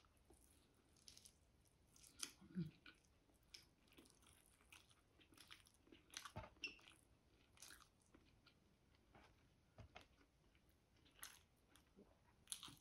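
Faint close-miked eating sounds: a person chewing a mouthful of braised chicken adobo, with irregular wet mouth clicks and smacks every second or so.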